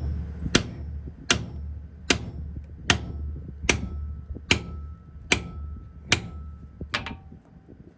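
A hammer striking steel about once every 0.8 s, nine even blows with a short metallic ring, over a low steady hum that stops near the end.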